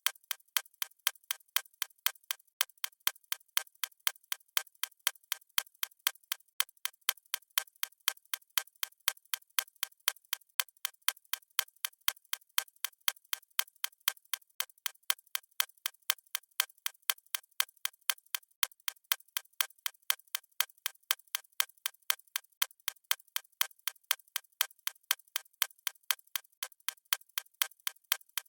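Clock ticking sound effect: an even, steady tick-tock of sharp, thin clicks, about two a second.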